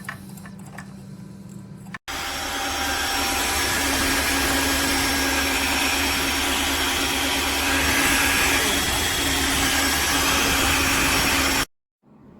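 A wet-dry floor vacuum running steadily for about ten seconds, starting and stopping abruptly, with a few steady whining tones over its noise. Before it there is a faint low hum.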